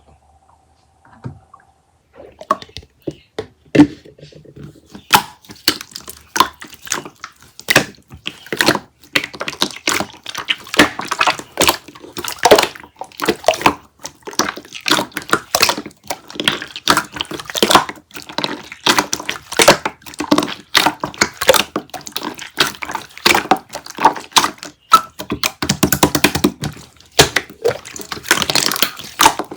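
A dense, irregular run of wet-sounding clicks and pops, many a second, starting about two seconds in and going on without a break.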